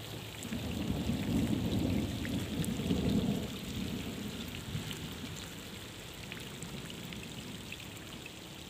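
Steady rain falling, with a hiss and scattered patter of drops. About half a second in, a low rumble swells, stays loudest for two or three seconds, then slowly fades away.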